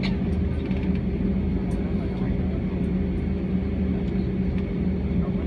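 Steady drone of an Airbus A320's engines and air system heard inside the passenger cabin, with a constant low hum and a few faint ticks.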